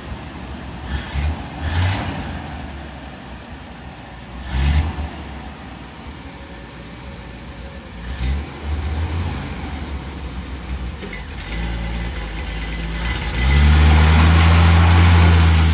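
Ford F-250 pickup engine revved in several short blips, then brought up and held at high revs, the loudest part, before cutting off suddenly near the end.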